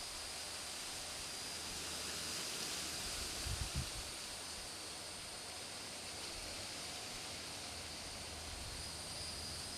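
Steady outdoor background hiss with faint, steady high-pitched tones, and a couple of soft low bumps about three and a half seconds in. No blast or shot is heard.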